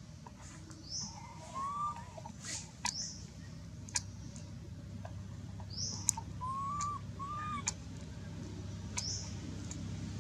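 Birds calling in woodland: a short high chirp repeats every two to three seconds, with a few short whistled notes in between, over a low steady hum.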